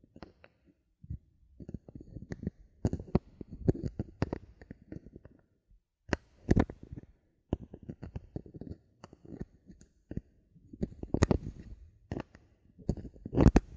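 Bottle caps handled close to the microphone for ASMR: irregular clusters of clicks and taps, with a few louder knocks about six and a half, eleven and thirteen seconds in.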